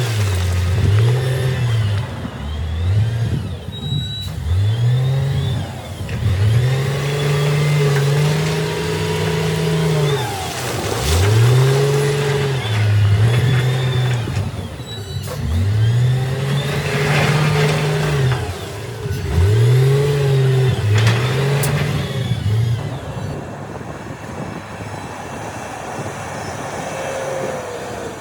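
Heavy diesel machinery engine revving up and falling back over and over as it works under load, with a few sharp knocks; the revving dies down near the end, leaving a steadier lower running sound.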